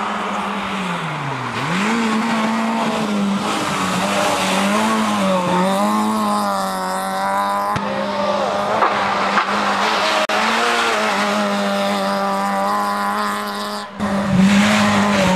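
Fiat Cinquecento rally car's small engine running hard at high revs, its pitch dropping and rising again as the driver lifts off and gets back on the throttle through the bends. There is a brief break near the end.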